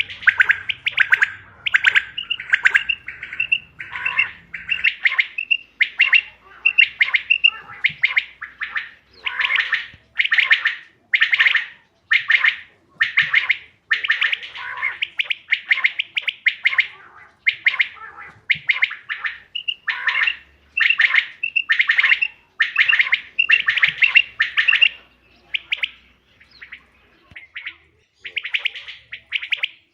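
Quail calling over and over: short bursts of high chirping notes repeated about once or twice a second, going fainter for a moment near the end.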